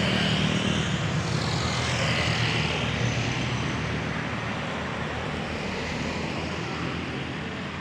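A motor vehicle's engine drones steadily and slowly fades as it moves away.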